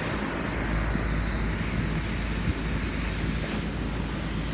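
York central air conditioner condenser unit running, a steady whooshing fan hum with a low drone underneath.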